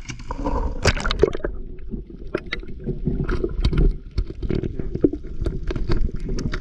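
Water splashing and gurgling against the camera, with a steady low rumble and many scattered sharp clicks and knocks.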